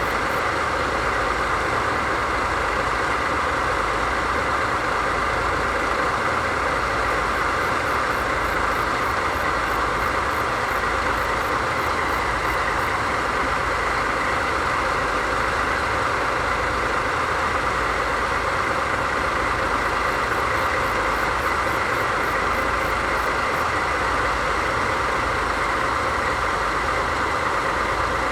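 DD51 diesel-hydraulic locomotive's twin V12 diesel engines idling steadily.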